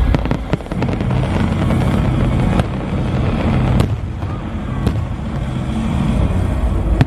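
Fireworks going off in a display: a string of sharp bangs and crackles over a continuous low rumble, with the biggest reports about a third of a second, half a second, two and a half, four and five seconds in.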